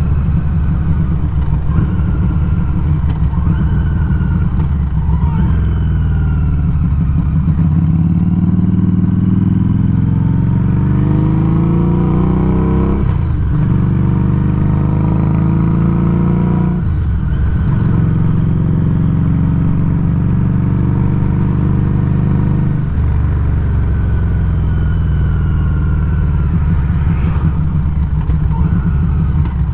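Exhaust of a 2019 Harley-Davidson Street XG500's V-twin through a Firebrand Loose Cannon slip-on muffler, picked up close to the muffler while riding. The engine note climbs under acceleration, then drops sharply at three gear changes: about halfway through, again a few seconds later, and once more later on.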